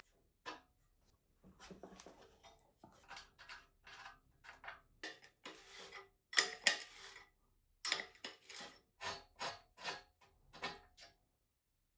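Irregular clinks, clatters and scrapes of small metal parts and tools handled on a hard surface, some with a faint ring.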